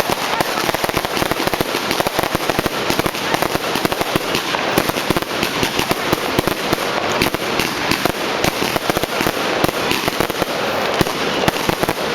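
Fireworks and firecrackers going off in a dense, unbroken barrage of cracks and bangs.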